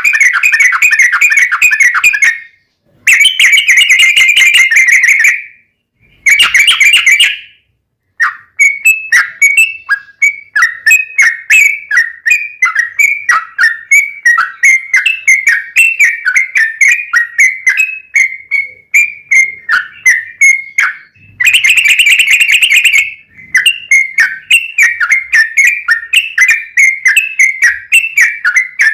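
Yellow-vented bulbul (trucukan) song. It opens with three short bursts of dense, rapid chattering, then runs into a long string of quick, repeated notes (the long rolling 'ropel panjang' song used as a lure). The string is broken by one more dense burst near the two-thirds mark.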